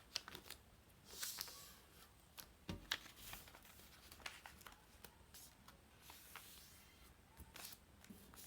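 A sheet of paper being folded and creased by hand: faint scattered crackles and short rustles, a little louder about a second in and again around three seconds.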